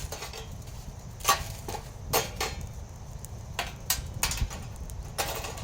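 Cookware being handled, knocking and clinking about eight times at irregular intervals over a steady low rumble.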